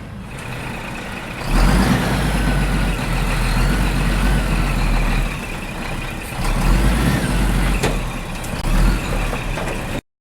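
A truck engine running with a low rumble and road noise, which cuts off suddenly near the end.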